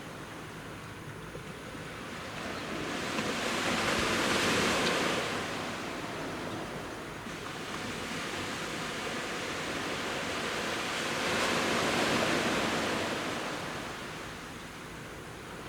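Sea waves breaking and washing up on a beach. The surf swells and fades twice, about seven seconds apart.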